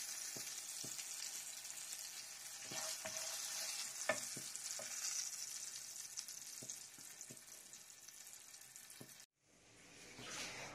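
Aubergine slices frying in hot oil in a pan: a steady sizzle with sharp clicks of the spatula against the pan as the slices are lifted out. The sizzle slowly fades and cuts off about nine seconds in, followed by a short, fainter hiss.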